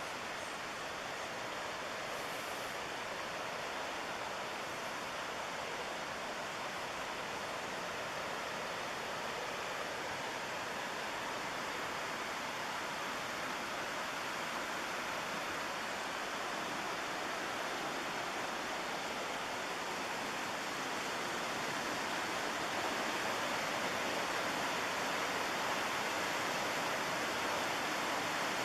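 Steady rush of the McKenzie River's fast water and falls, a constant even roar with no other events, growing gradually louder and stepping up a little about two thirds of the way through.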